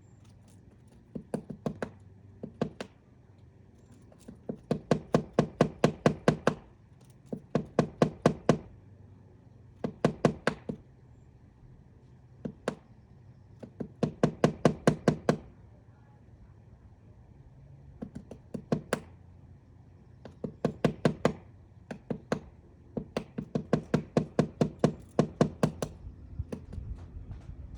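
Woodpecker pecking into wood to excavate its nest cavity: bouts of rapid, evenly spaced knocks, about eight a second. Each bout lasts one to three seconds, with short pauses between.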